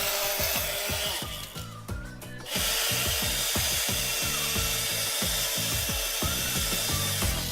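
Small battery-powered DIY handheld vacuum running with a steady whirring hiss; it cuts out about a second in and starts up again about a second later. Background music with a steady beat plays underneath.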